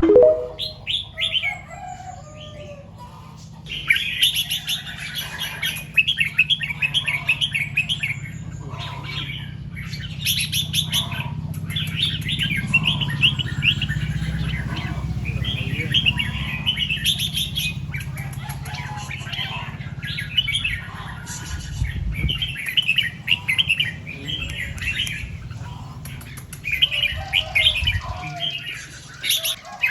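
Red-whiskered bulbul singing in repeated bursts of quick, chattering phrases every couple of seconds, over a steady low hum.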